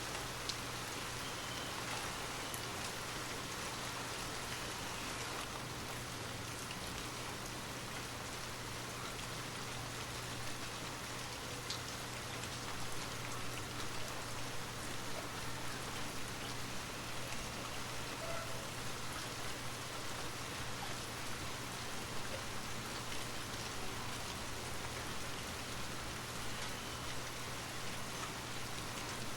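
Steady rain falling on a surface, with scattered individual drops ticking and a faint low hum underneath.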